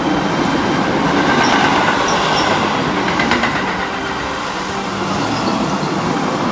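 Keio 7000 series electric commuter train running past along the platform close by: a loud, steady rumble of wheels on rail, with a run of clicks about three seconds in as the wheels cross rail joints.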